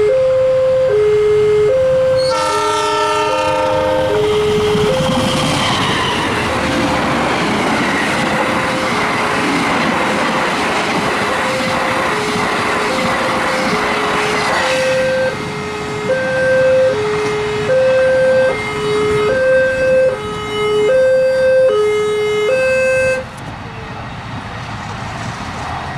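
Level-crossing warning alarm sounding an alternating two-tone 'ding-dong' over and over. A diesel train horn blasts briefly about two seconds in, then the train passes with rushing wheel and rail noise for about ten seconds. The alarm goes on after the train has gone and stops near the end.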